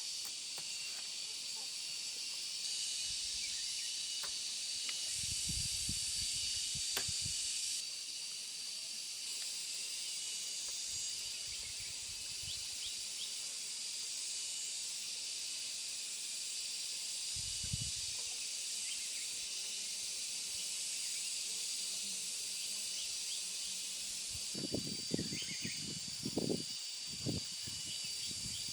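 A steady, high-pitched insect chorus with a constant shrill tone. Occasional soft low thuds break in, and a cluster of sharper knocks comes near the end.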